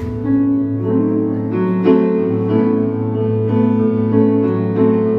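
Instrumental music: a piano playing held chords that change every second or so over a sustained bass note, with no singing.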